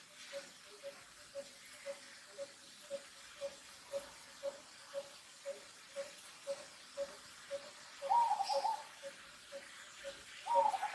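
A bird calling one short note over and over, very evenly, about twice a second, with two louder, wavering calls breaking in about eight seconds in and again near the end.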